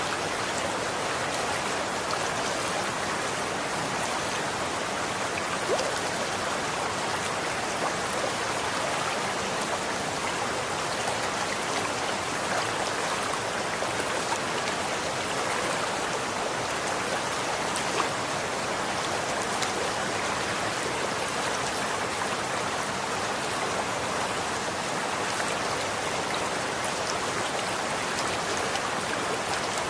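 Running water flowing in a steady, even rush, with a few brief sharp drips or splashes standing out now and then.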